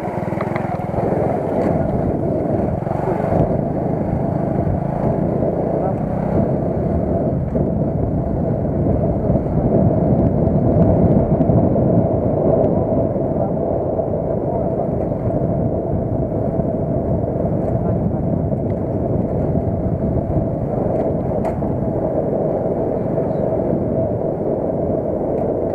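Car on the move, heard from inside: a steady mix of road and engine noise.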